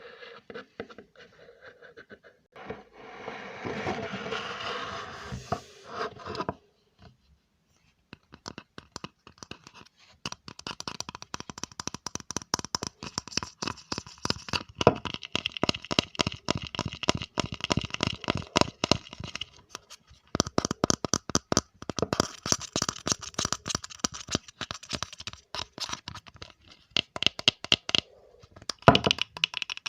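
Close-miked ASMR trigger sounds: a few seconds of rubbing, then, after a short pause, a long run of rapid scratching and tapping.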